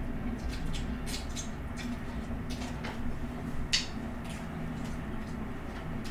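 Eating sounds from instant noodles: irregular soft clicks and smacks of chewing, the loudest a little past the middle, over a steady low hum.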